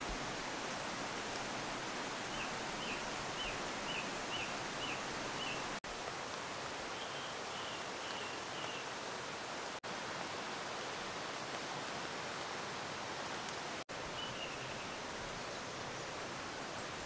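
Steady rushing of running water in the bush, with a bird giving a series of short chirps near the start and a few more later. The sound breaks off for an instant three times.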